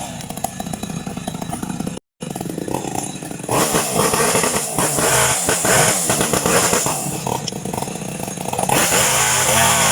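Two-stroke chainsaw running and cutting wood, with a brief break about two seconds in; it gets louder about three and a half seconds in and holds a steady engine note near the end.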